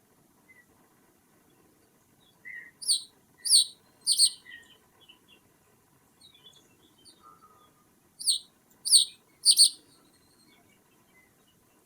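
Wild birds calling: two series of three loud, short calls, each falling sharply in pitch, the first a few seconds in and the second near the end, with faint chirps from other birds between.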